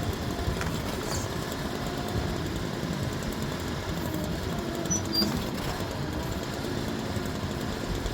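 Engine of a Typhon Stomp mini skid steer running steadily.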